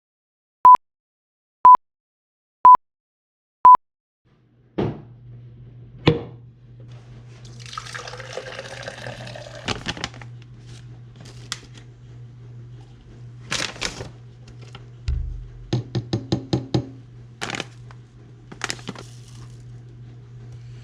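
Four short electronic beeps a second apart, then a low steady hum with scattered knocks and clicks. In the middle, water runs into a container for a couple of seconds, rising in pitch as it fills.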